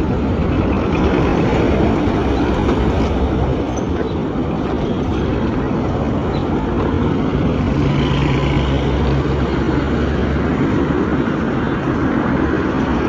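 Steady motor-vehicle noise: engine and road rumble, with a low engine drone that grows stronger from about eight to ten and a half seconds in.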